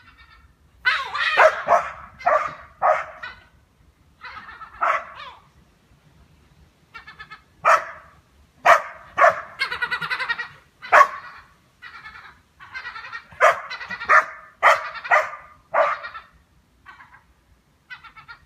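Goldendoodle barking again and again in irregular runs of short, loud barks, with brief pauses between the runs.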